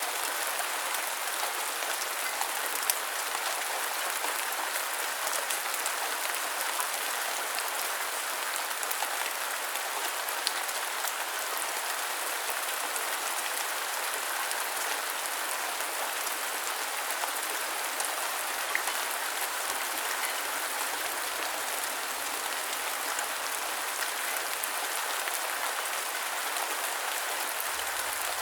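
Steady rain falling, an even hiss of many drops with a few louder single drops ticking through it.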